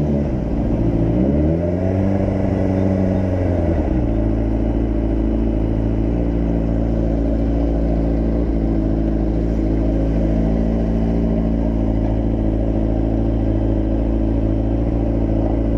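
Motorcycle engine under way: its pitch dips, climbs and drops again through the first four seconds as it revs and shifts, then holds steady for the rest.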